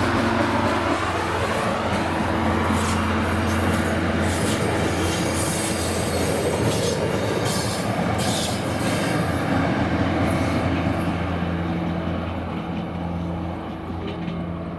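UTA FrontRunner diesel-hauled commuter train passing close by: a steady low engine hum under loud rolling and wheel noise from the cars, with clicks and squeal. A tone drops in pitch in the first second or so. The noise eases off near the end as the train moves away.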